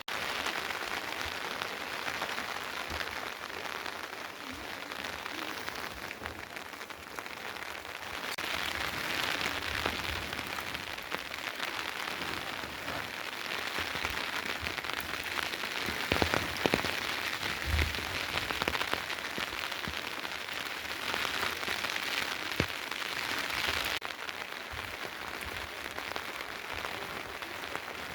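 Steady rain falling, a continuous hiss that grows heavier in the middle stretch, with a few sharper drips.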